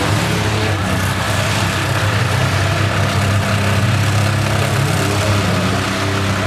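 Engines of demolition-derby minivans and pickups running steadily, with small rises and falls in pitch and no sharp crash.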